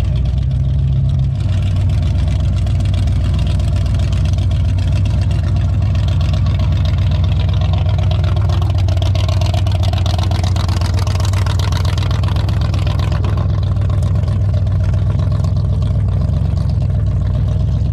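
Classic car engine running at low revs with a loud, steady, deep rumble as the car rolls in slowly.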